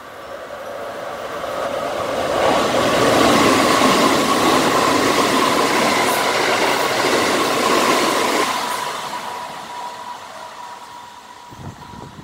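Red Keikyu electric train running through the station: the rushing noise of its wheels and motors swells over about two seconds, holds for several seconds as the cars go past, then fades away. A steady high tone sounds throughout, and there are a few short knocks near the end.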